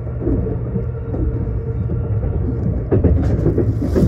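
Limited express train running at speed, heard from inside the carriage: a steady low rumble with scattered short knocks. About three seconds in, a hiss rises over it.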